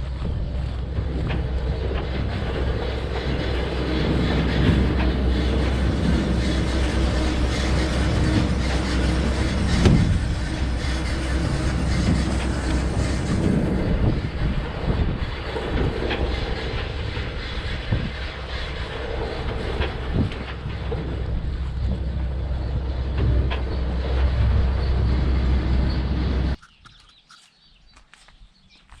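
Tractor running at work: a loud steady low engine rumble with rattling and knocking over it. It cuts off suddenly near the end.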